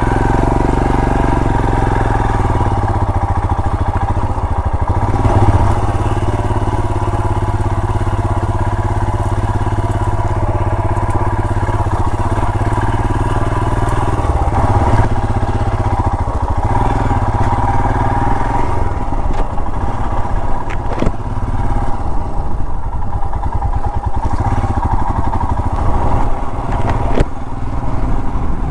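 Royal Enfield Himalayan's 411 cc single-cylinder engine running steadily under way, with a continuous low rumble and a few brief clicks late on.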